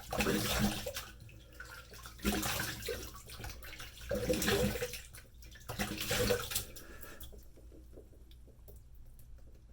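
Water from a sink tap splashing in four bursts, then going quiet for the last couple of seconds.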